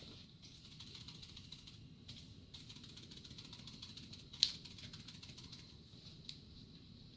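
Opened can of dog-food pâté being tipped and handled over a bowl: a faint steady hiss, then one sharp click about four and a half seconds in and a lighter one about six seconds in.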